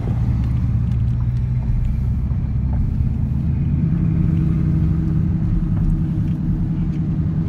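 Car engine and exhaust droning steadily at low speed, heard from inside the car. A higher steady hum joins about halfway through.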